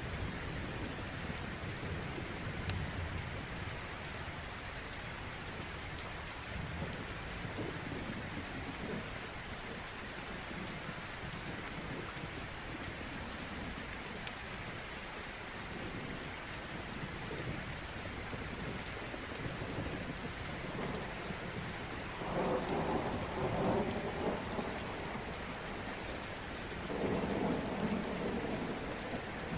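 Steady rain with a fireplace crackling in small sharp pops. Two louder rumbles of thunder come near the end, each lasting a couple of seconds.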